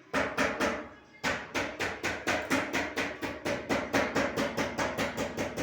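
A hammer striking repeatedly in an even rhythm, about four blows a second, with a short pause about a second in.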